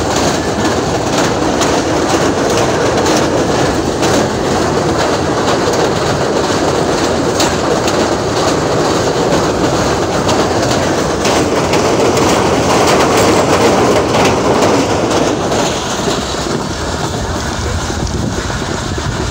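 Passenger train running across a steel truss bridge, heard from a carriage window: a loud, steady rumble of wheels on the rails. It gets a little quieter about sixteen seconds in as the train comes off the bridge.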